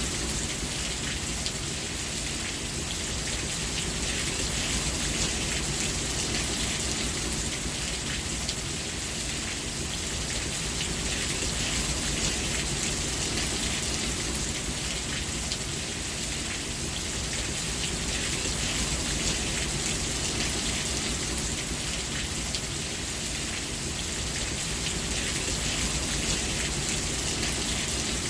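Steady rain falling: a continuous hiss of drops with many fine ticks of individual drops and a low rumble underneath, rising and falling slightly in level.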